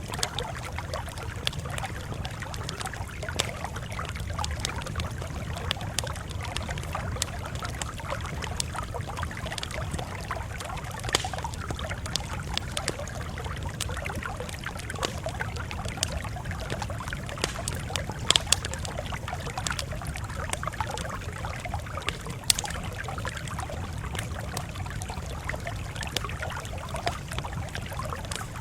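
Campfire crackling, with irregular sharp pops and snaps over a steady low rumble; a few pops stand out louder, about a third and two thirds of the way through.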